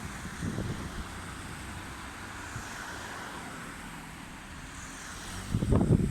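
Strong, cold wind blowing and buffeting the microphone: a steady rushing rumble that turns into loud, gusty low thumping about five and a half seconds in.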